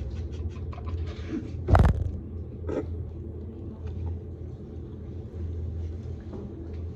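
Steady low hum with faint small clicks, broken by one sharp knock about two seconds in and a softer one a second later.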